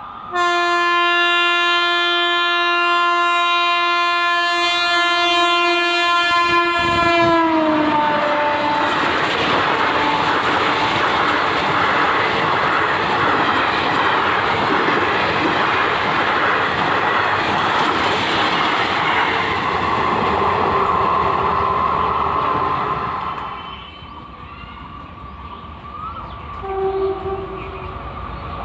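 Indian Railways passenger express passing at speed: a long blast of the locomotive's horn that drops in pitch as the engine goes by, then the coaches rushing past with wheels clacking over the rail joints. The passing noise falls away sharply near the end.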